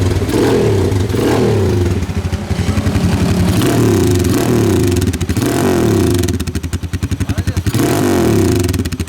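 Rusi motorcycle engine revved repeatedly through a newly made custom exhaust pipe, the pitch rising and falling every second or so. About two-thirds of the way in it drops back to a pulsing idle for a moment, then revs again.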